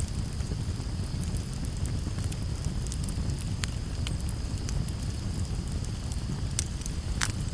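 Campfire burning: a low rushing sound from the flames with frequent sharp crackles and pops of burning wood, the loudest pop near the end. A thin steady high hiss runs over it.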